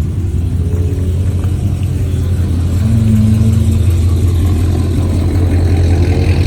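Car engine running loudly at idle: a deep, steady rumble that swells slightly about three seconds in.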